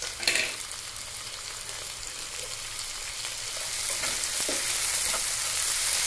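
Chopped tomatoes sizzling in hot mustard oil with fried onions in a nonstick pan, stirred with a slotted spatula that scrapes across the pan in short strokes. There is a brief knock about a third of a second in, and the sizzle grows louder in the second half.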